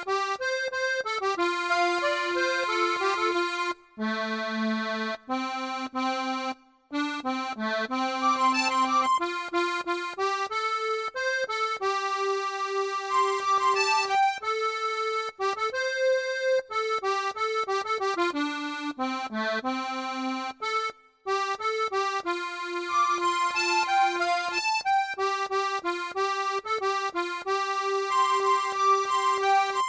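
Accordion playing a song melody as a solo instrumental, with held notes broken by brief pauses between phrases.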